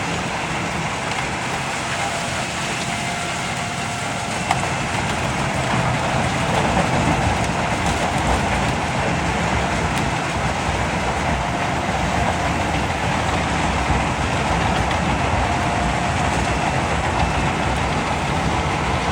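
Large Albach wood chipper with an MAN engine of about 800 hp running and feeding wood through, a steady loud mechanical noise. A single sharp knock comes about four and a half seconds in, and the noise grows louder about six seconds in as it takes on the load.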